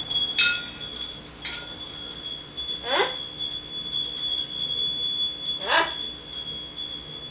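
Small bells jingling continuously with a bright, shimmering ring. Two falling swoops sound over it, one about three seconds in and one near the end.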